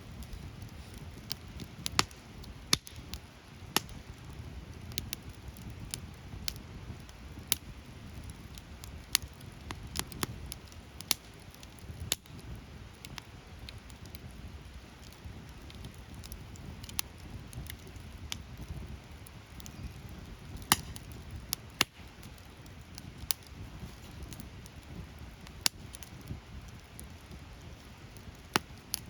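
Wood fire burning: irregular sharp crackles and pops, a few of them louder, over a low steady rumble.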